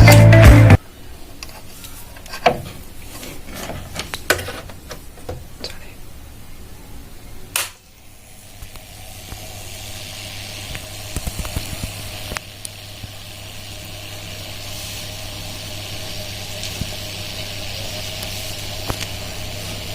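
Music cuts off about a second in. Scattered clicks and taps follow, then from about eight seconds a steady sizzling hiss builds, with a low steady hum underneath: water heating and fizzing around a homemade wire heating element.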